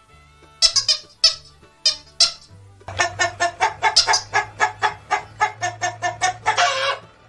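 Chicken clucking: a few separate sharp clucks, then a rapid run of about four clucks a second ending in one longer drawn-out call.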